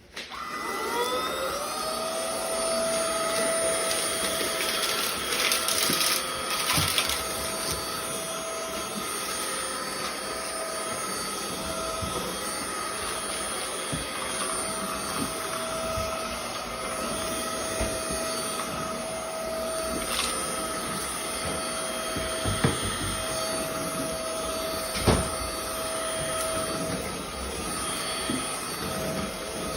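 WOWGO cordless stick vacuum's motor switching on and spinning up over the first two seconds, then running with a steady whine and rushing hiss. A few short clicks sound over it.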